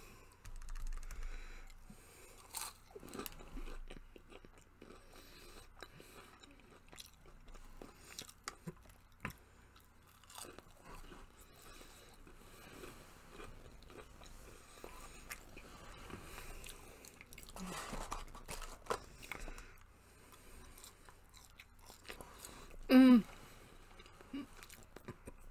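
Person chewing crunchy fried fast food (Burger King onion rings) close to the microphone, with soft crunches and small wet mouth clicks throughout. A brief vocal sound comes near the end.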